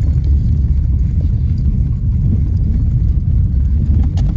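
Steady low rumble of a moving car heard from inside the cabin: road and engine noise. There are a couple of light clicks near the end.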